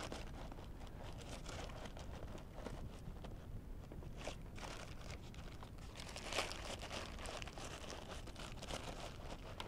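Faint rustling, crinkling and small scattered clicks from hands handling and packing stuffing into a motorcycle helmet.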